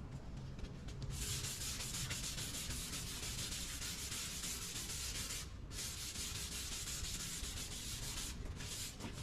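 Sanding body filler on a car body panel: sandpaper rubbing in a steady hiss that starts about a second in, breaks off briefly midway, and stops near the end after one last short stroke, over a low hum.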